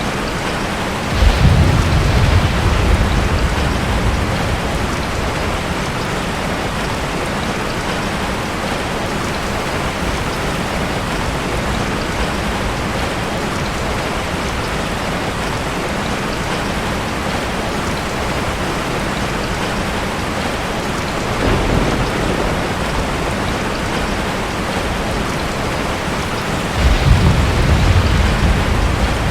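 Steady rain with thunder rumbling three times: a long roll about a second in, a shorter, weaker one about two-thirds through, and another roll near the end.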